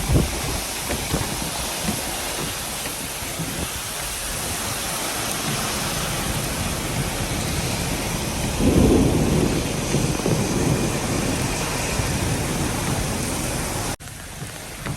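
Storm-force wind and heavy rain beating on a moving vehicle as a steady rushing noise, with a louder surge about two-thirds of the way through. The sound cuts out abruptly for a moment near the end.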